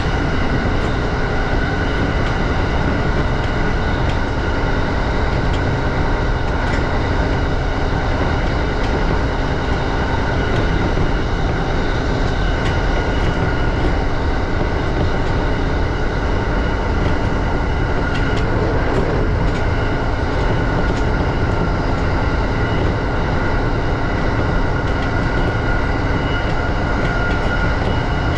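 JR E235 series electric train running along the line: a steady rumble of wheels on rail with a few steady tones above it.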